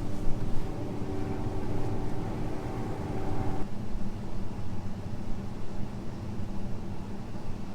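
John Deere T670i combine harvester running steadily under load, heard from inside the cab, a low machine drone. A steady pitched hum sits on top of it and cuts off suddenly about three and a half seconds in.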